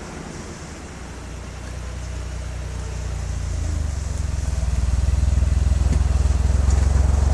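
Exhaust note of a Suzuki Wagon R Stingray MH23S's 660 cc three-cylinder engine through a ROSSOMODELO Ti-C aftermarket muffler: a low, pulsing drone that grows louder over the first few seconds, then holds steady.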